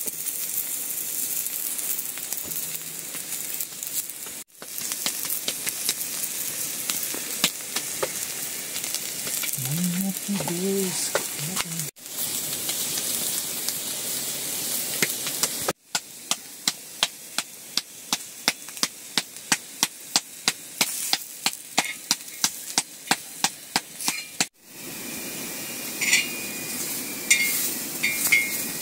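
Food sizzling and frying in a hot pan, a steady hiss that breaks off for a moment several times. In the middle part a spoon or ladle knocks against the pan about three times a second as the food is stirred.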